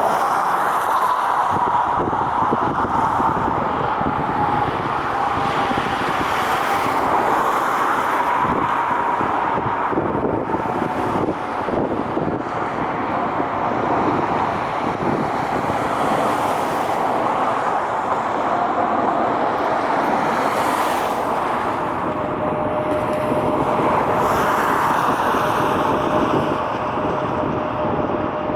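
Jet airliner engines whining steadily over a roar, the whine slowly falling in pitch, mixed with road traffic noise.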